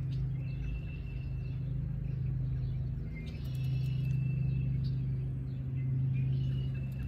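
Birds calling in three drawn-out high notes over a steady low hum.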